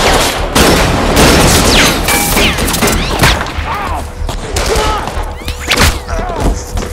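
Sound-designed film gunfire: a dense volley of many overlapping shots, heaviest in the first couple of seconds, then continuing as scattered rapid shots.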